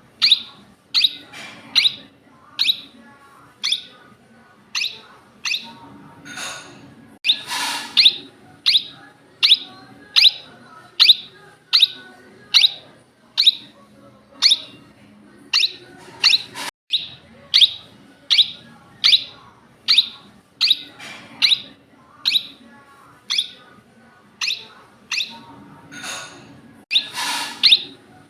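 Indian ringneck parrot calling: a steady series of short, sharp, high calls, about one and a half a second, broken by a few longer, harsher screeches.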